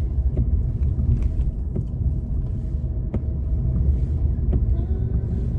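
Low, steady rumble of a car heard from inside the cabin, with a few faint clicks.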